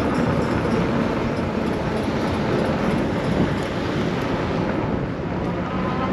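Steady rushing wind and road noise from riding an electric bike at speed.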